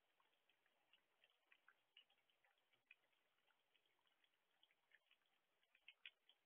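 Light rain: faint, scattered drops ticking irregularly, a few each second with no steady rhythm.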